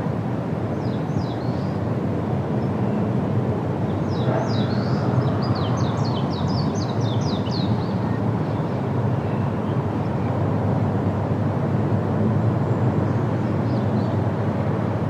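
Steady wind rushing through forest trees, with a songbird calling over it: a rapid run of short, falling chirps, about four a second, from about four to eight seconds in, and a few fainter chirps near the start and the end.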